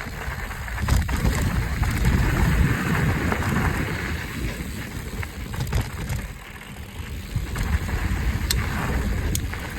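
Wind buffeting the microphone over a mountain bike rolling along a dirt trail, with a few sharp clicks and knocks from the bike. It eases briefly a little past six seconds.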